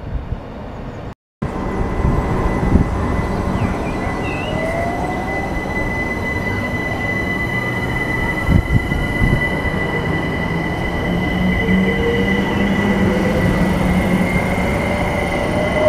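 London Overground Class 378 electric multiple unit pulling out of the platform: wheel-and-rail rumble with a steady high whistle, and traction motor whine rising in pitch as it gathers speed. The sound starts abruptly about a second in.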